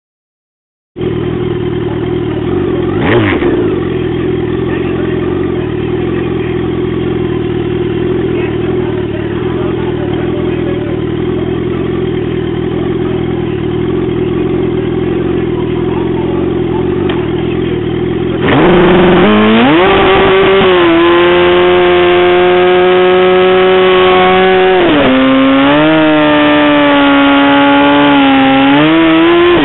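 Drag-racing motorcycle engine idling steadily on the start line, with a quick blip of the throttle about three seconds in. Past halfway it is revved up and held at high revs, dropping briefly once and rising again, as the bike waits to launch.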